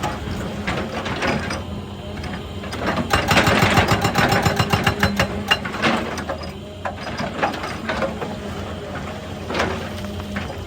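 Excavator breaking rock: a steady engine hum under a dense, irregular clatter of rock and metal knocks, busiest in the middle.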